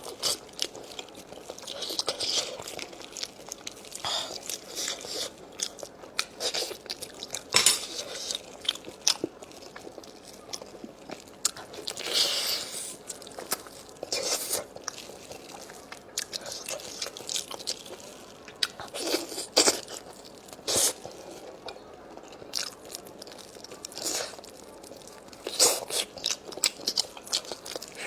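Close-up eating sounds: a person biting and chewing food with irregular crunches and wet mouth smacks.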